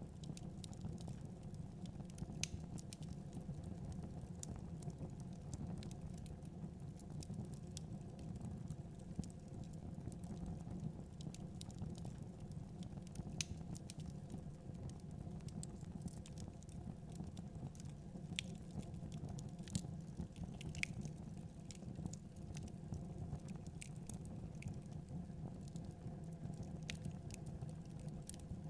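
Wood fire crackling in a fireplace, irregular sharp pops and ticks scattered throughout over a steady low rumble.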